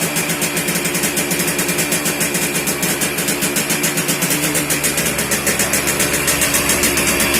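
Engine idling steadily with an even pulsing beat, after a cold start on the first try following four months of standing.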